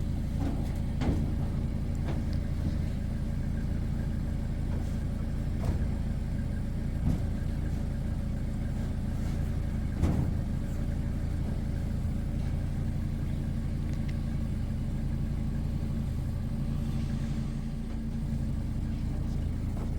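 Tractor engine running steadily at a low, even speed, with a few short sharp knocks, the loudest about ten seconds in.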